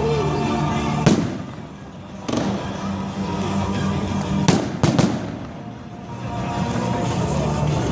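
Fireworks going off in a finale: about five sharp bangs, the loudest about a second in, with three in quick succession around the middle, over steady background music.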